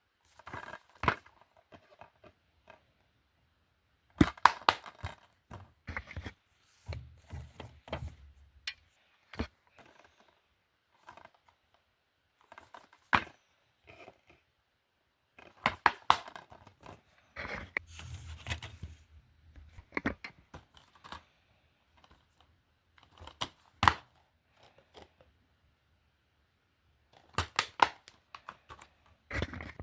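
Plastic DVD cases being handled: irregular sharp clicks and knocks as cases are picked up, opened and set down, with rustling in between.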